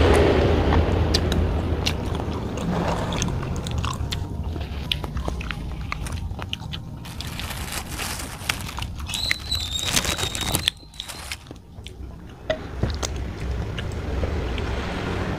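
Close-miked chewing and crunching of chicken, bone included, with many sharp crackling bites. A brief thin high squeak comes about nine seconds in.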